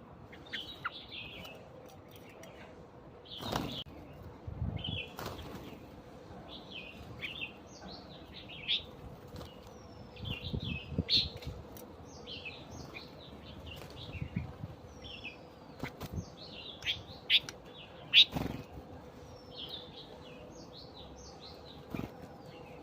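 Small birds chirping in many short, quick calls throughout, with a few sharp knocks or flutters now and then.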